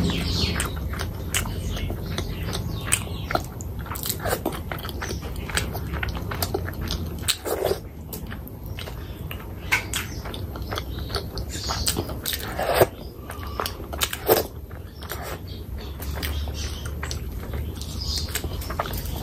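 Close-miked chewing of curry and rice eaten by hand: wet mouth sounds with many short smacks and clicks, and another bite near the end.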